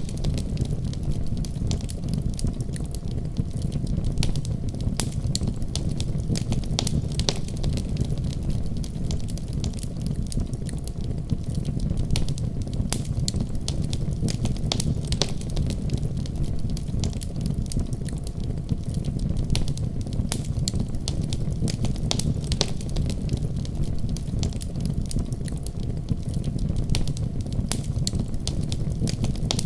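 Wood fire crackling in a fireplace: a steady low rumble of flame with frequent irregular sharp pops and crackles.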